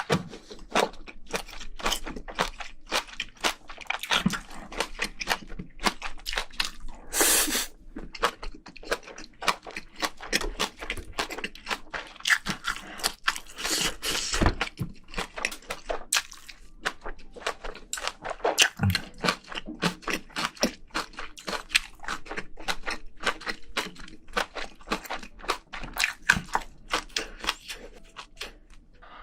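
Close-miked chewing and crunching of a person eating spicy braised seafood: rapid irregular wet clicks and crunches throughout, with two longer sounds about 7 and 14 seconds in.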